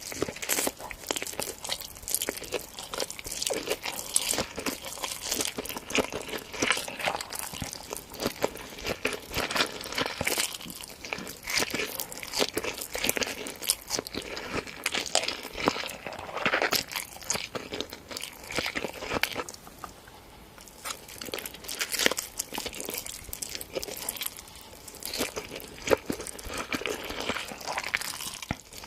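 Close-miked ASMR eating: a person biting and chewing crunchy food in a dense, irregular run of crackly crunches, easing off briefly about two-thirds of the way through.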